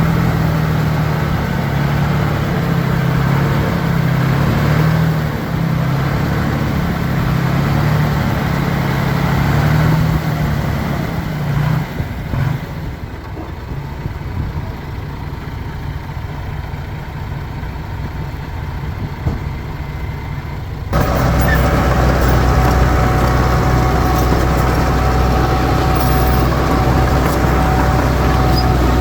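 Heavy diesel engines of earth-moving machinery running. For about the first twelve seconds there is a steady engine note, then a quieter stretch. About 21 seconds in the sound changes abruptly to a louder, deeper engine with a steady high whine.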